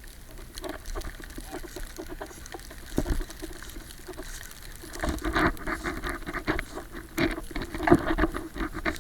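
Footsteps crunching through deep snow, heard muffled through a waterproof camera case, with irregular crunches that become louder and denser about five seconds in.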